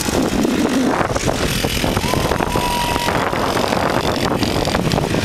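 Mini bike engines running and revving, their pitch rising and falling.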